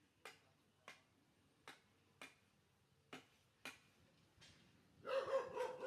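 Sharp mouth clicks, six of them unevenly spaced over about four seconds. A short, louder pitched call follows about five seconds in.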